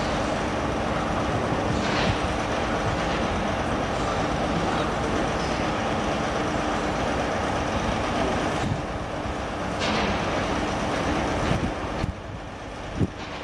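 Train running through a station: a steady rumble with a faint engine hum, easing off near the end, where there is a single knock.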